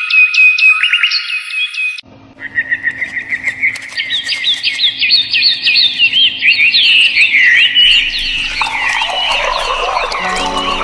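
Many small birds chirping rapidly and continuously, with a brief break about two seconds in. Soft background music comes in under the birdsong near the end.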